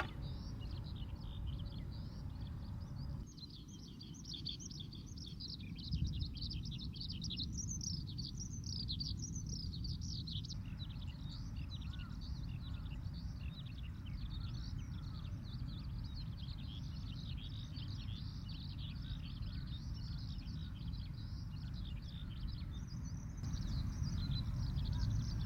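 Skylark singing a long, unbroken stream of rapid high warbling trills, with a steady low rumble of breeze on the microphone.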